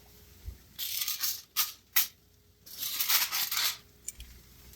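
Steaks on a barbecue grill: two short bursts of hissing, each under a second, with two sharp clicks between them.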